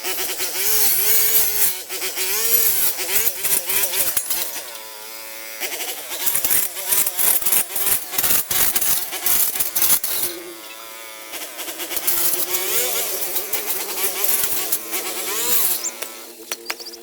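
Three long runs of quick, rasping scraping strokes, as of a hand tool or stiff brush working a rough surface, with short pauses between them. Under them runs a steady, wavering tone.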